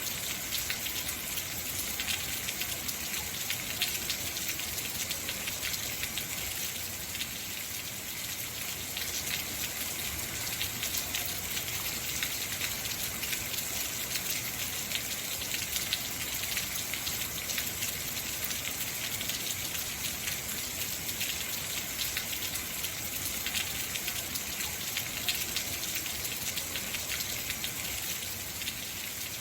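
Heavy rain falling steadily, a dense hiss of drops with fine crackle of raindrops hitting surfaces.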